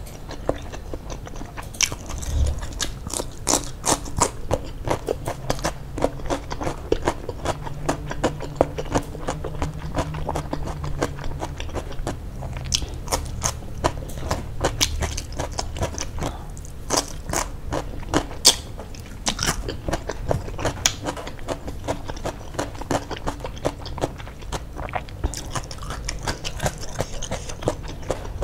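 Chewing and biting fried chicken with rice: a dense run of crunchy, wet mouth clicks, several a second.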